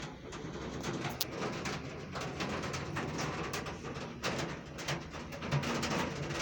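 Heavy rain falling, a steady hiss with many sharp drop hits close by.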